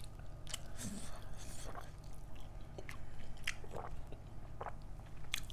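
Close-miked chewing and biting of food: scattered soft smacks and clicks of a mouth eating, over a faint low hum.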